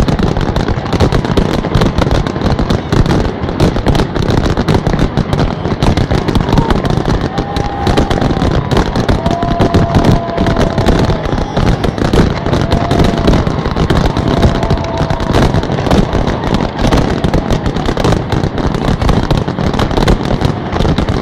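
A dense, unbroken barrage of fireworks bursts and crackles. A few short whistling tones sound in the middle.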